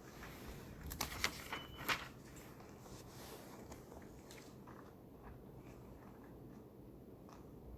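Library reading-room ambience: a steady low hum of the room, with a quick cluster of small clicks and knocks about a second in, then faint scattered taps.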